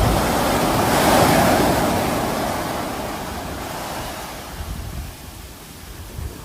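Sea waves washing onto the shore: a wave surges up about a second in, then its wash fades away steadily.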